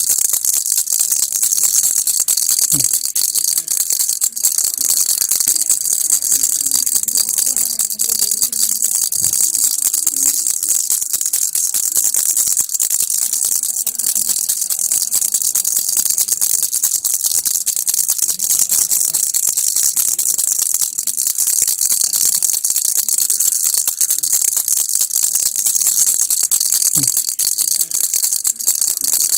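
Baby rattle (kilukki) being shaken without a break: a bright, dense, steady rattling of small pieces inside the toy.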